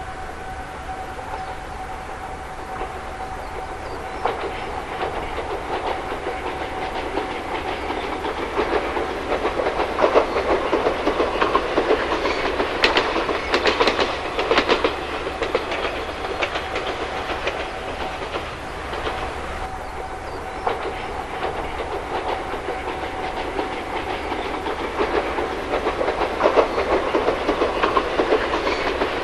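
Ichibata Electric Railway train running along the line, its wheels clacking over rail joints over a steady rumble. The clacking comes in clusters, loudest a third of the way in and again near the end. A steady tone is heard during the first several seconds.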